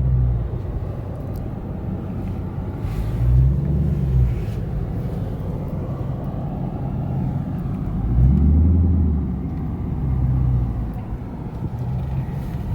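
Steady low rumble of a car driving, heard from inside the cabin, with a few short low swells of engine sound.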